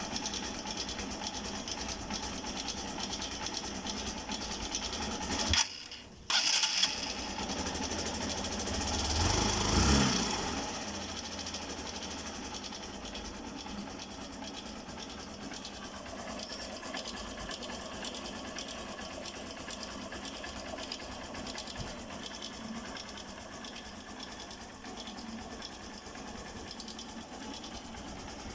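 Hero Eco 150 TR motorcycle's single-cylinder engine running with a knocking (golpeteo). The revs swell briefly around ten seconds in, then it settles back to a steady run. The dealer put the knock down to a connecting-rod problem.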